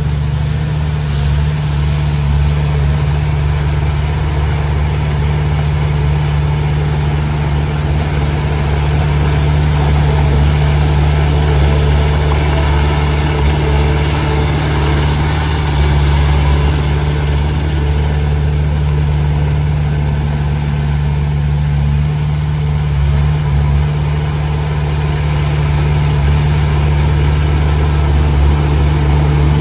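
Komatsu D20P bulldozer's diesel engine running steadily with a deep, even drone, at a steady working pace throughout.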